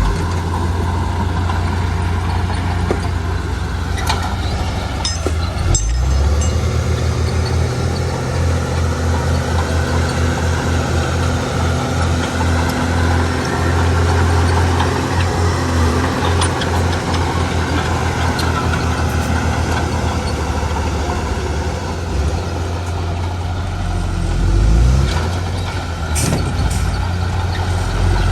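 Heavy diesel engine of construction machinery running steadily, with a low pulsing rumble and a few sharp knocks about four to six seconds in and again near the end.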